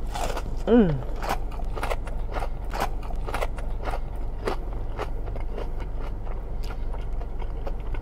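Close-up chewing of crunchy battered fried fish: a run of short crackly crunches, about one or two a second, with a brief falling hum of the voice just under a second in.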